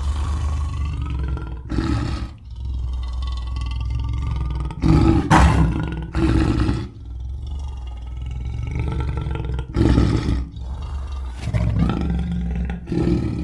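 A roaring sound effect: a large animal or creature roars again and again over a steady low rumble. The loudest roars come about five to six seconds in and again around ten seconds.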